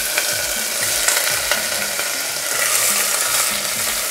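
Tomato sauce, bouillon and fresh celery and cilantro sizzling in hot oil in a stainless steel pot, a steady frying hiss as a sofrito starts to cook.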